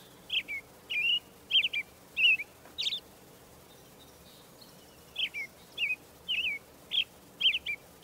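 A small bird chirping: two runs of short, high chirps that slur downward, each run lasting about two and a half seconds, with a pause of about two seconds between them.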